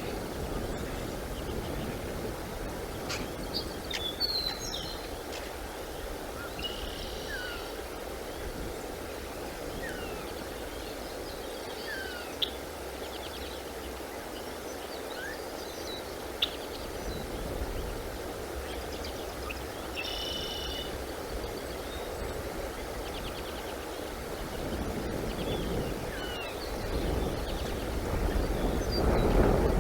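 Scattered short bird chirps and whistled calls over a steady outdoor background noise, which grows louder near the end.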